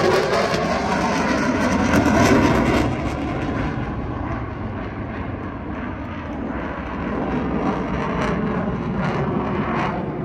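Military aircraft engine noise from a pass over the airshow crowd, loudest in the first three seconds with its pitch dropping, then easing to a quieter, steady rumble.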